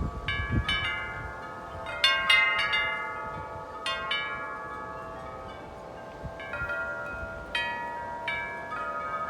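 Metal wind chimes struck irregularly by strong gusting wind, clusters of overlapping ringing tones that hang and decay between gusts. Low rumble of wind on the microphone near the start.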